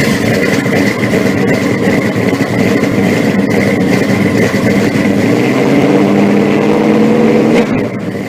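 An engine running loudly and steadily, cutting off abruptly at the end.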